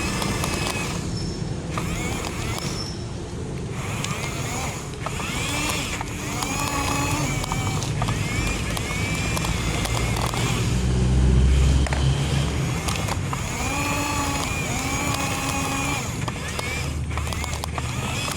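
Toy excavator's small electric motors whining, rising and falling in pitch again and again as they start and stop, over a steady low rumble.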